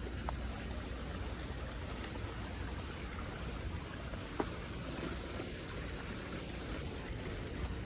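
Steady water noise like falling rain, with a few sharp ticks, the clearest about four and a half seconds in.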